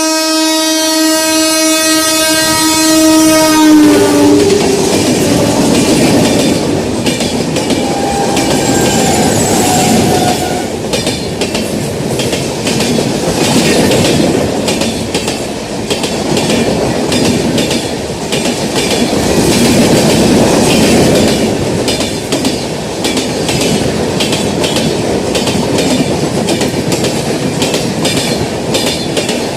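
WAP-7 electric locomotive's twin-tone horn sounding loudly for about four seconds, its pitch dropping as it goes by. Then the coaches of the express train rush past with a steady rumble and rapid clickety-clack of wheels over rail joints.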